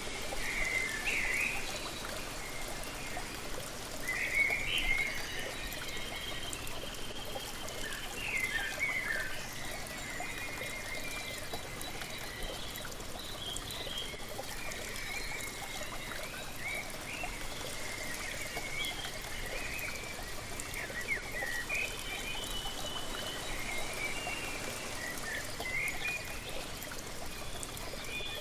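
Waterfall pouring and trickling steadily, with songbirds giving short chirping calls over it again and again.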